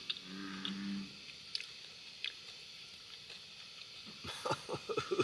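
A bullfrog's low, cow-like call ending about a second in, then quiet with a few small clicks, and a quick run of crisp crackles near the end.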